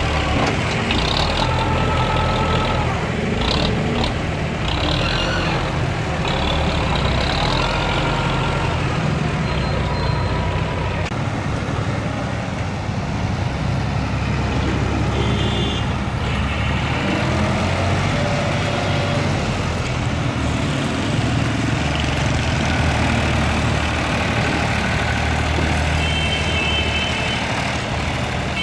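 Massey Ferguson tractor's diesel engine running steadily, a deep even hum, with brief higher tones over it now and then.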